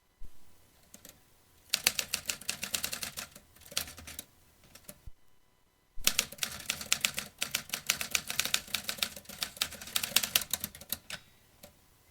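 Vintage manual typewriter being typed on: a soft thud, then two fast runs of sharp key strikes, each run a few seconds long, with a short pause between them.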